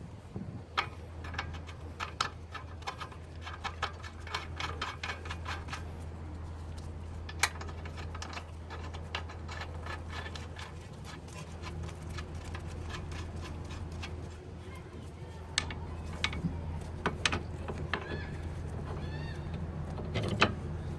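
Metal hand tools clicking and clinking during strut replacement on a car, with a quick run of ratchet-like clicks early and scattered sharper clinks later, over a steady low hum.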